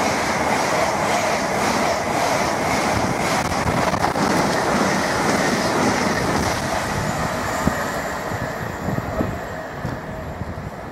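Express passenger train passing through a station at speed: a loud steady rush of wheels on rail, with a rhythmic clatter of wheels over the track in the first few seconds. The noise fades over the last few seconds as the train draws away.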